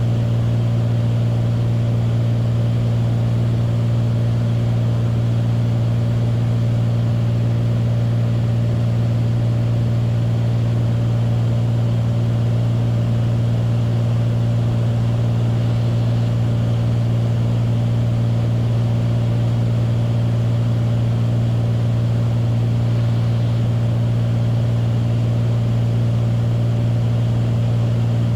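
Beechcraft Bonanza's single piston engine and propeller droning steadily in flight, a constant low hum with no change in pitch.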